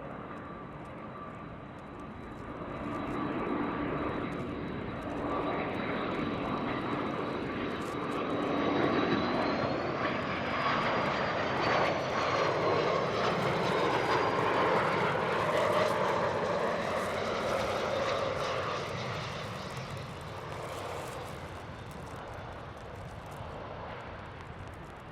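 Gulfstream G450 business jet landing, its two turbofan engines whining over a steady rush of noise. The sound grows louder, peaks near the middle as a high whine rises and then slowly drops in pitch, and fades toward the end.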